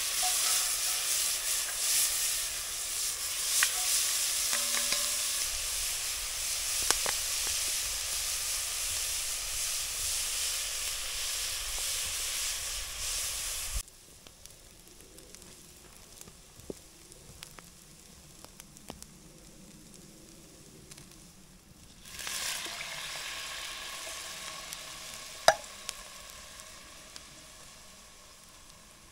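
Food sizzling and frying in a cast iron pan, with a few sharp clicks of stirring. The sizzle cuts off abruptly about halfway, leaves a much quieter stretch, then starts again loudly about three quarters through and slowly dies down.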